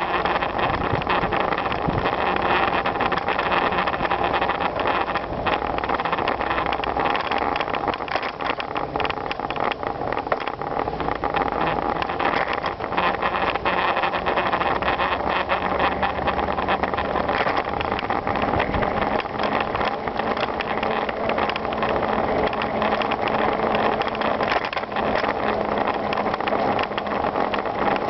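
Riding noise from a bicycle ride: steady tyre and wind noise on the microphone, with many small rattles and clicks from the bike.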